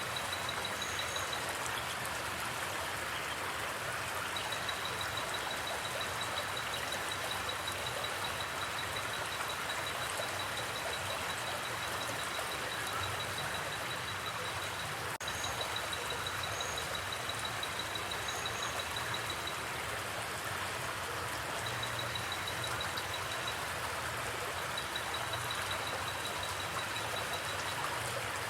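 Creek water flowing with a steady, even rush. A high, rapid pulsing trill runs over it in long stretches that stop and start, with a few short high chirps now and then.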